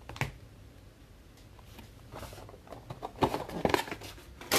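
Light handling noise of trading cards and card boxes on a table: a tap just after the start, then scattered soft taps and rustles from about two seconds in.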